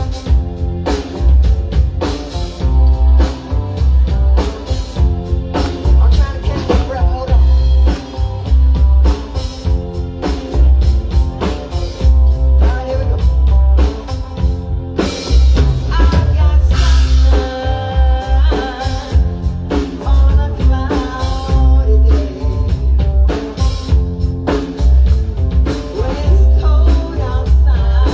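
Live band playing a song with a steady drum-kit and bass beat, guitar, and a voice singing.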